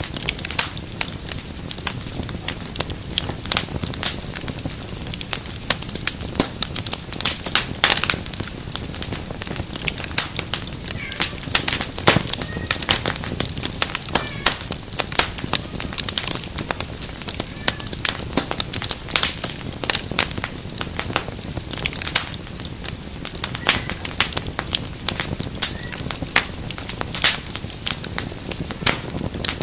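Wood fire in a fireplace crackling, with frequent sharp pops at irregular intervals over a steady low rush of burning.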